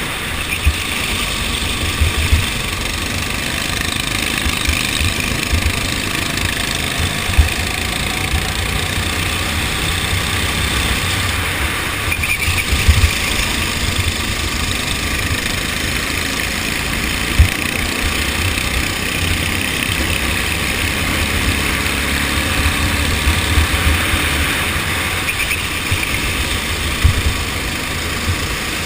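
Go-kart engine running steadily, with a few brief sharp knocks rising above it.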